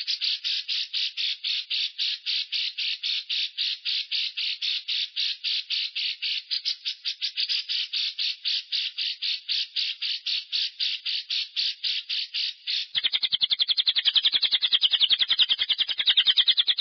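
Lovebird 'ngekek': a long, unbroken chattering trill of rapid repeated notes, about five a second. Near the end it shifts into a faster, louder run. This is a long-breath ngekek lure song used to set other lovebirds singing.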